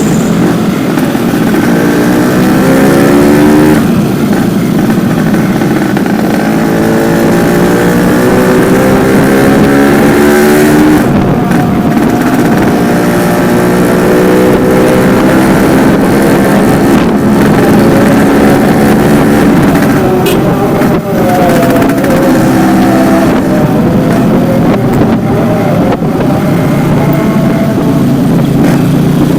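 Yamaha RX-King's two-stroke single-cylinder engine running through a stock-type silencer, revving up several times, its pitch climbing and then dropping back, with shorter, uneven revs near the end.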